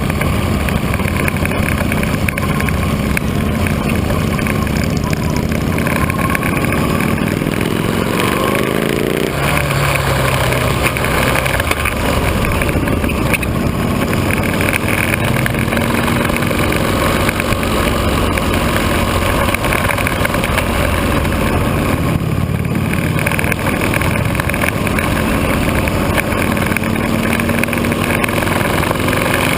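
Motorcycle engines running at low street speed, with engine notes rising as bikes accelerate about a third of the way in and again near the end.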